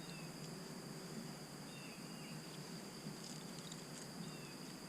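Faint outdoor ambience: a steady high insect drone over a soft hiss, with a few short, high, falling chirps scattered through.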